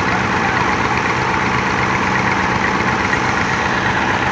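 Tractor diesel engine running steadily, with no change in pace.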